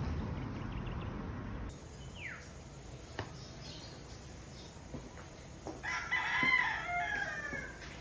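Steady background noise drops away early, leaving a few sharp clicks. About six seconds in comes one long bird call of about a second and a half, the loudest sound.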